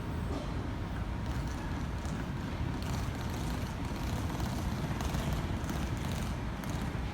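Sydney Trains M-set (Millennium) double-deck electric train running into the platform: a steady low rumble of the train, with faint crackling higher up from about three seconds in.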